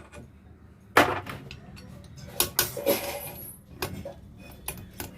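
Metal knocks and clinks from an alternator being taken apart: one loud sharp knock about a second in, then a string of lighter clanks and taps as the housing halves and parts come apart.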